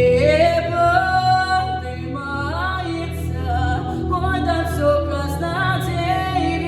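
A woman singing a melody with long held, gliding notes over a steady instrumental backing track.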